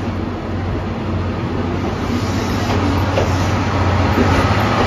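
Passenger coaches of a departing train rolling past at low speed: a steady rumble of wheels on rail that grows a little louder in the second half.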